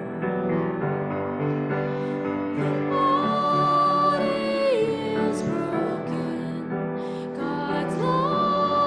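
A hymn sung with piano accompaniment, with a voice holding two long notes.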